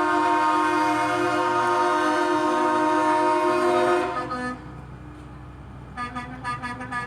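Semi-truck air horn sounding one long held blast that cuts off about four seconds in; about two seconds later a horn sounds again in a quick run of short toots.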